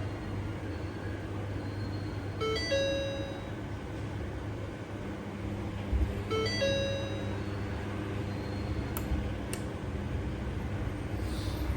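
Ford Everest instrument cluster's electronic warning chime sounding twice, about four seconds apart: each time a quick run of short high beeps, then a longer lower tone, over a steady low hum.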